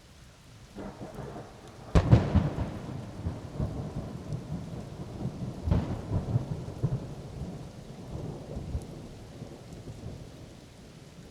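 Thunder from a close lightning strike. A low rumble builds about a second in, then a sharp crack about two seconds in, the loudest moment, breaks into rolling rumbles with a second crack near the middle, and dies away toward the end. Steady rain hisses underneath.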